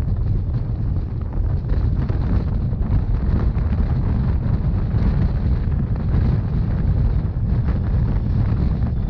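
Wind buffeting the microphone over the steady low rumble of a moving narrow-gauge Rhaetian Railway train.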